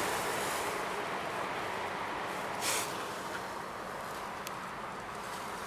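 Steady rushing background noise that slowly fades, with one short hiss about two and a half seconds in.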